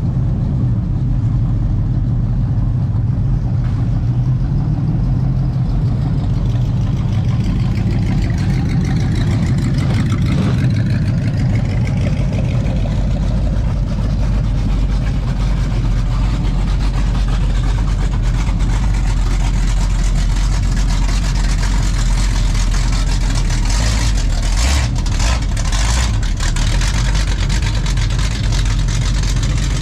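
Old car engine running at a steady idle, with a low, even hum.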